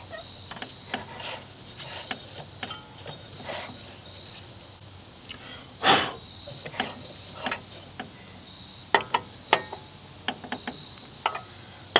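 Rust being scraped and rubbed off a lawn mower's ignition coil to restore its spark: irregular short scraping strokes, one louder stroke about halfway through and a few sharp clicks near the end.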